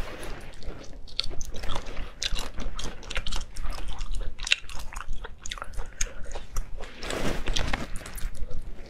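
Chewing and biting on spicy crayfish tails, with many small crackles and clicks from the shells, busiest about seven seconds in.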